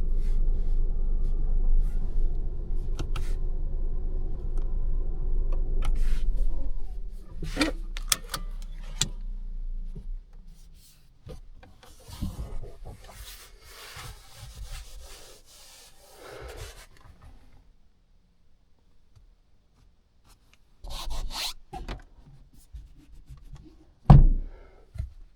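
A low road and cabin rumble inside a Lancia Ypsilon dies away about six seconds in, as the car comes to a stop. Scattered clicks and rubbing follow as things in the cabin are handled, and one loud thump comes near the end.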